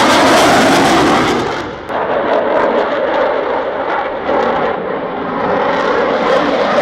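Eurofighter Typhoon's twin jet engines running loud with a rough, crackling rumble as it flies slowly nose-high, its height held on engine thrust. The noise dips briefly about two seconds in, then builds again.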